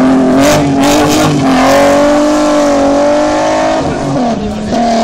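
Rally car engine pulling hard away up the road, held at high revs with sharp crackles in the first second or so. It drops in pitch and level about four seconds in.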